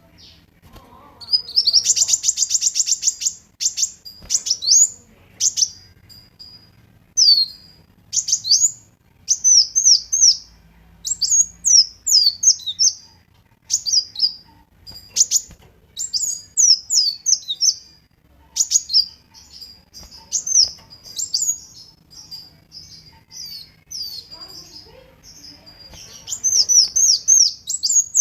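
Kolibri wulung sunbird singing: a high, fast twittering of short downward-sweeping chirps in quick bursts, with a rapid buzzy trill about two seconds in.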